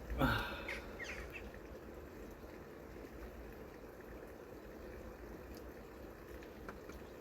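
Clear mountain water trickling and pouring steadily, with a brief louder splash-like burst about a quarter second in.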